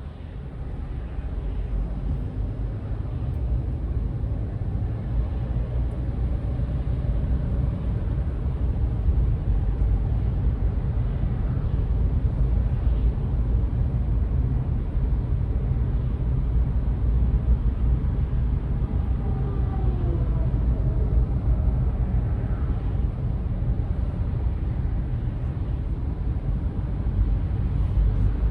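Steady low rumble of a car driving on the road, growing louder over the first several seconds and then holding level.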